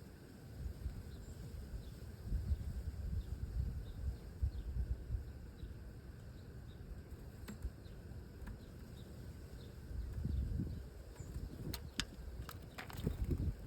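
Small birds giving faint, short, high chirps over and over, over a low rumbling noise. A few sharp clicks come near the end.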